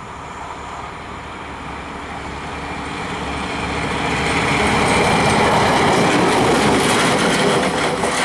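WM-15A track maintenance motor car running light along the line as it approaches the listener. It grows louder over the first half and stays loud towards the end.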